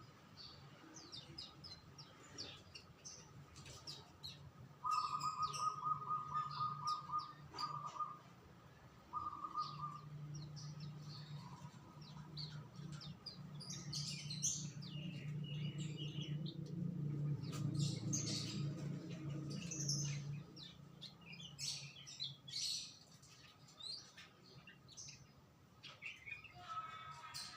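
Songbirds chirping and calling, with short bursts of a rapid, evenly pulsed trill about five and nine seconds in. A low steady hum runs underneath through the middle.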